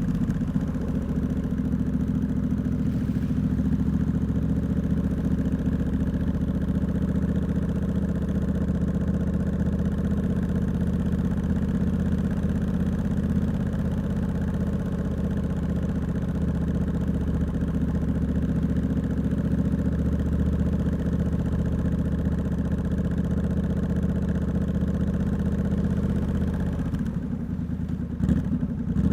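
Triumph Scrambler 1200X's parallel-twin engine, fitted with a loud Hitchcox aftermarket exhaust, idling steadily at a standstill, with a brief change in the engine sound near the end.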